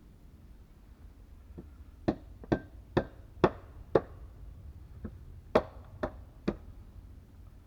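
Sharp knocks of a tool striking wood, about two a second: a run of five blows, a short pause, then four more.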